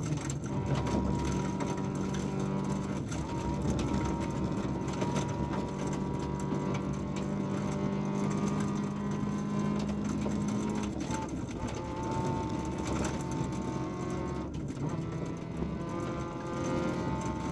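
VW Polo 1.4 16V's four-cylinder engine running hard under load, heard from inside the stripped cabin: it holds one steady high note for about ten seconds, then the pitch drops and keeps changing. Short knocks and rattles from the gravel road under the car run through it.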